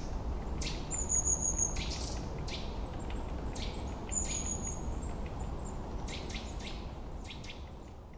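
Birdsong ambience: many short high chirps, with two thin, high whistled calls that fall slightly in pitch, about a second in and about four seconds in, over a steady low background noise. It fades down near the end.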